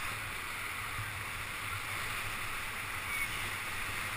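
Steady rush of river water around a whitewater raft.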